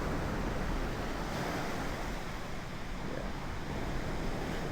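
Ocean surf washing on a beach, with wind buffeting the microphone in a steady low rumble.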